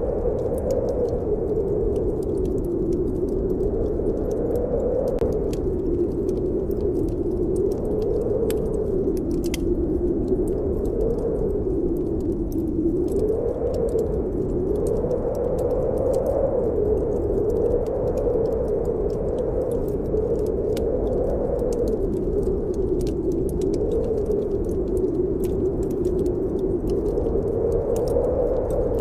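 Snowstorm wind howling steadily, its pitch wavering slowly up and down, over the scattered crackles and pops of a wood fire burning in a fireplace.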